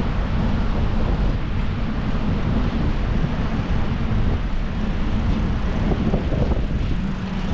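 Wind buffeting the microphone on a moving bicycle: a steady, uneven low rumble.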